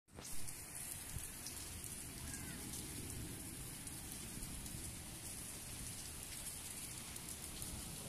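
Steady heavy rain falling on a paved street and walls, an even hiss dotted with many sharp drop ticks. A short thump sounds right at the start.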